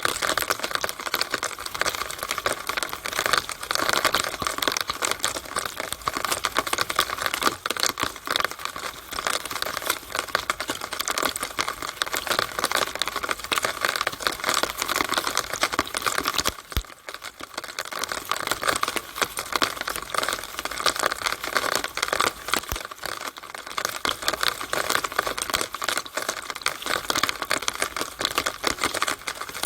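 Rainwater running out of a downspout and splattering in the rain: a steady, dense crackle of drops and splashes that dips briefly a little past halfway.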